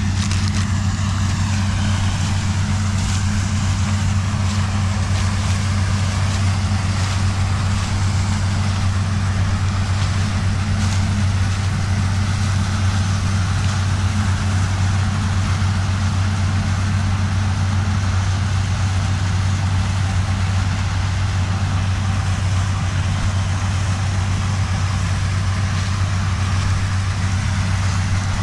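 Zmaj 142 combine harvester's diesel engine running steadily under working load while harvesting corn. There is a strong low hum with a noisy rush above it, and a higher hum in the drone drops away about eighteen seconds in.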